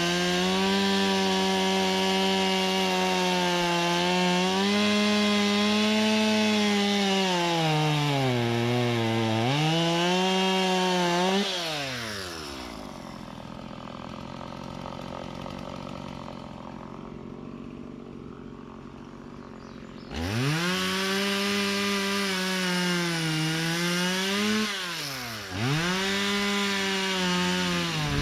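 Two-stroke chainsaw running at full throttle, its pitch sagging and recovering as it bogs in the wood. About halfway through it drops back to a quiet idle, then is throttled up sharply again for another cut.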